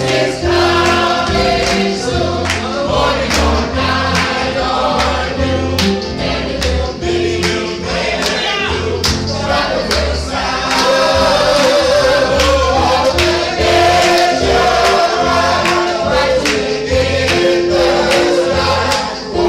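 A group singing a gospel hymn together over instrumental accompaniment, with a bass line and a steady beat.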